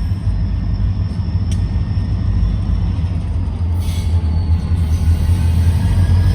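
Freight train running past with a steady low rumble that grows slightly louder toward the end.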